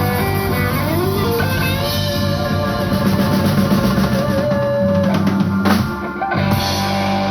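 Live rock band playing: electric guitar with sliding, held notes over bass and drum kit.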